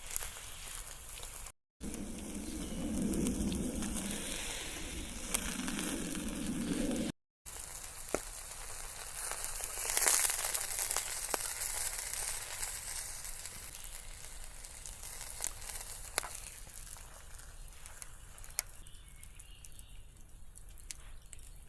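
Sizzling and crackling over an open wood cooking fire: a steady hiss with scattered sharp pops, loudest about ten seconds in. The sound drops out briefly twice where the footage is cut.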